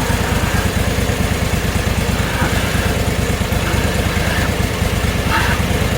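Gasoline engine of a portable band sawmill idling steadily, left running to cool down after the cut.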